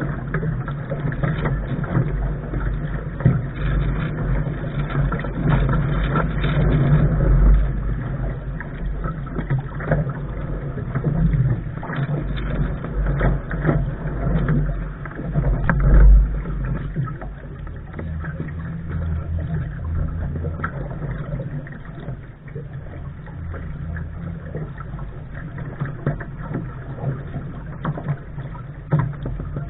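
Lark sailing dinghy under way: a continuous rushing noise of water and wind at the bow with a heavy low rumble, broken by frequent small splashes and knocks. It is somewhat louder during the first half.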